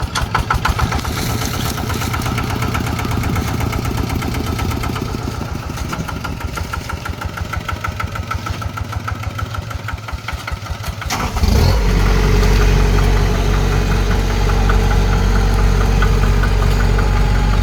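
Combine harvester engine running with a fast, even pulse. About two-thirds of the way through it suddenly becomes louder and steadier, with a deep hum.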